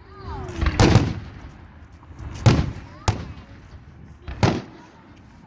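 Aerial fireworks bursting: five sharp bangs, the first two close together about a second in, then single bangs spread over the next few seconds, each with a short echoing tail.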